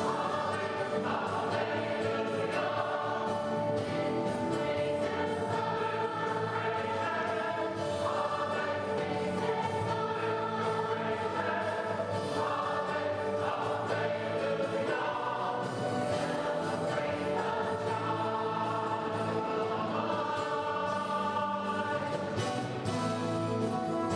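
Church choir singing with accompaniment, a sustained Christmas choral piece.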